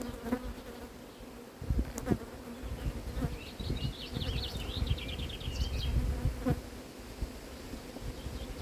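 A mass of honeybees buzzing steadily around an open hive during a frame inspection. Several sharp knocks and a low rumble of handling come through about two seconds in and again a little after six seconds.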